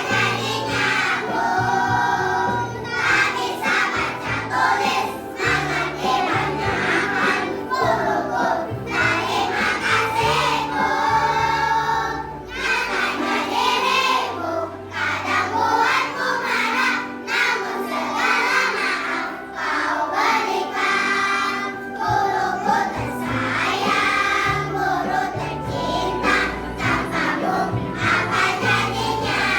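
Children's choir of primary-school pupils singing a song together, with low bass notes of an accompaniment beneath the voices.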